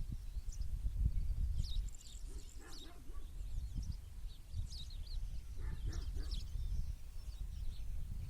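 Small wild birds chirping and singing in short, high calls scattered throughout, over a steady low rumble.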